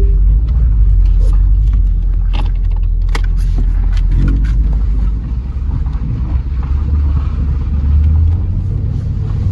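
2009 Porsche Panamera 4S's naturally aspirated V8 running with a steady low rumble as the car is driven. A few short sharp clicks come between about two and four and a half seconds in.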